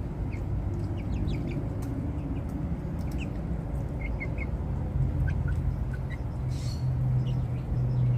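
Birds giving short, scattered chirps over a steady low hum that grows louder about five seconds in.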